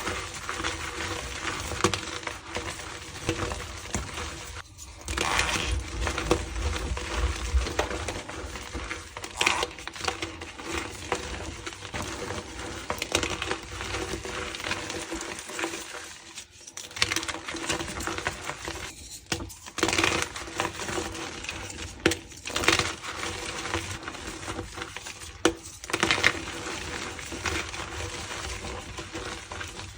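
Blocks of gym chalk being crushed and crumbled: a dense, continuous crunching and crackling, with louder crunches every few seconds and a slight squeak as the chalk re-forms.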